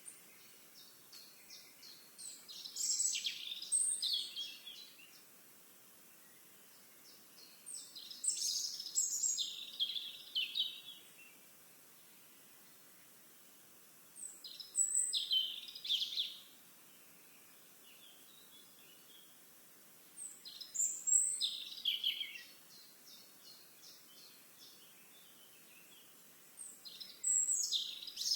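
A songbird singing the same song again and again, about every six seconds, five times. Each song opens with a quick run of short high notes and breaks into a louder tumbling phrase two to three seconds long.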